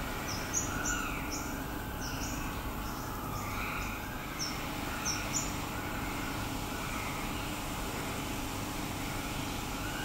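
Short high bird chirps, about a dozen in quick singles and pairs over the first half, above a steady low background rumble.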